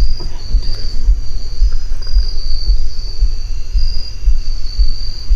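Steady, high chorus of trilling insects, like crickets, over a loud, uneven low rumble.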